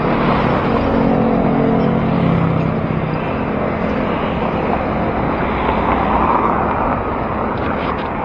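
City traffic heard from a moving bicycle: a motor vehicle's engine hums close by for the first few seconds, over steady road and wind noise.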